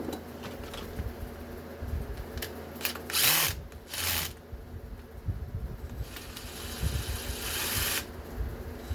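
Power drill run in short bursts while backing out fasteners from scrap parts: two brief runs about three and four seconds in, then a longer run of about two seconds near the end.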